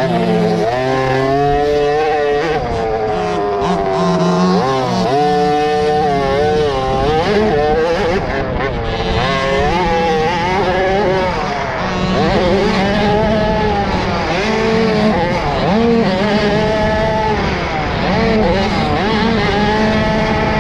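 Several 50cc motocross bikes running on the track, their engines revving up and down with the throttle and gear changes. The pitches rise and fall and overlap throughout.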